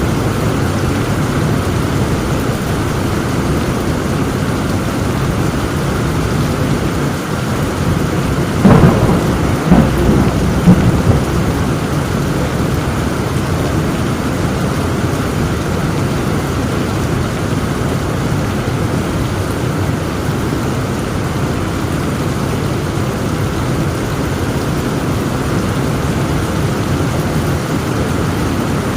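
Heavy rain falling steadily, with a sharp crack of thunder about nine seconds in and rumbling peaks over the next two seconds.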